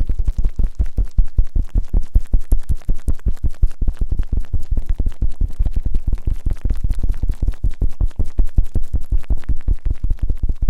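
Fast, deep rubbing and scraping strokes on the ears of a binaural microphone, several strokes a second without a break: ASMR ear-cleaning 'gori-gori' in both ears.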